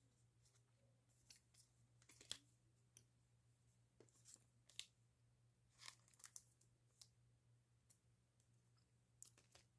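Faint, scattered rustling, crackling and tearing of paper or plastic packaging as mail parcels are opened by hand, over a steady low electrical hum.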